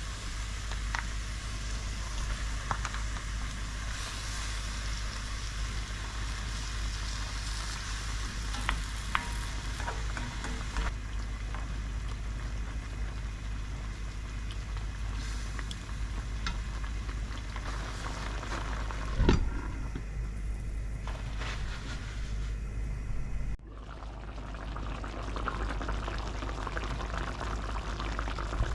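Food sizzling in a frying pan, with scattered light clicks and taps of a utensil and one sharp knock about two-thirds of the way through. Near the end the sound cuts off suddenly and a softer sizzling or bubbling takes over.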